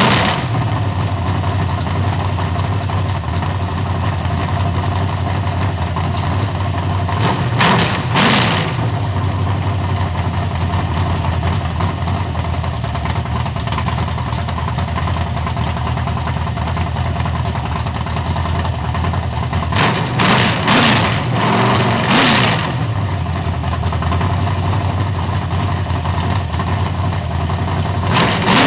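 Chevy 355 small-block V8, a 350 bored .030 over with a performance cam, idling steadily. The throttle is blipped briefly about a quarter of the way in, twice in quick succession about three-quarters through, and once more at the end.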